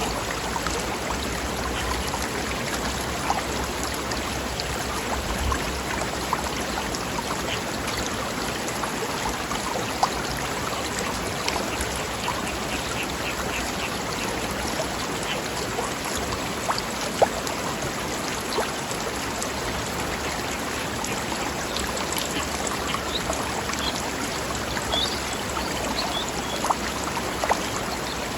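Mountain stream flowing over rocks, a steady rush of water with small splashes and plops breaking through it. A few short high chirps come in now and then.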